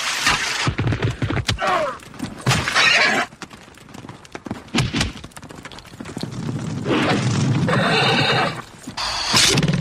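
Horses neighing, with hooves clattering and many sharp knocks and clicks. This is a staged binaural sound-effects scene.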